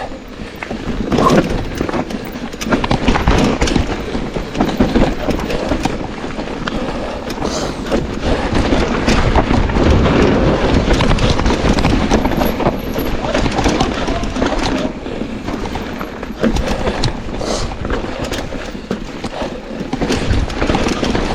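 Mountain bike riding fast down a rough bike-park trail: a constant rush of tyres on dirt and rock, with many quick knocks and rattles from the bike over bumps.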